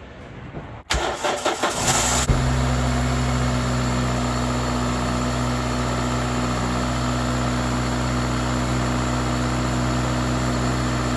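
Toyota Celica engine cranking over with the starter for about a second and a half, catching, then idling steadily.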